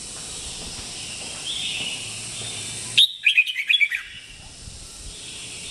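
Red-whiskered bulbul calling: a short high phrase about one and a half seconds in, then a loud run of several quick chirps about three seconds in, over a steady hiss.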